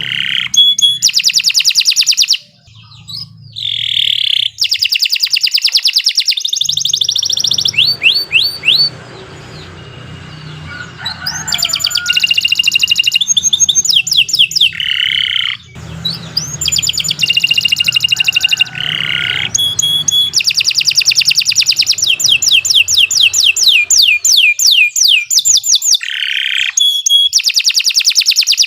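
Domestic canary singing a long, continuous song of fast repeated trills, one rolling phrase after another, with a softer stretch about ten seconds in.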